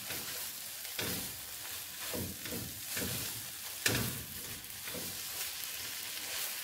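Egg, tomato and onion sauce sizzling in an oiled frying pan while it is stirred, with the utensil scraping and knocking against the pan about once a second.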